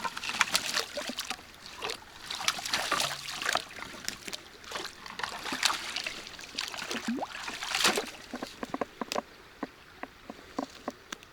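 Water splashing and sloshing with irregular crackles and knocks, settling after about nine seconds into a quieter hiss with a few scattered ticks.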